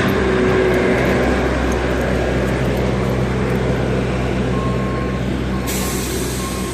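A motor vehicle running with a steady engine hum and road noise. A short beep repeats at an even pace late on.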